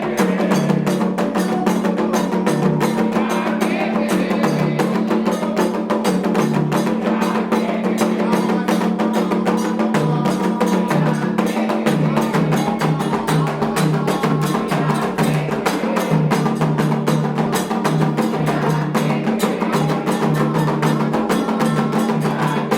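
Candomblé ritual percussion: atabaque drums and an agogô bell playing a rapid, continuous rhythm of strikes.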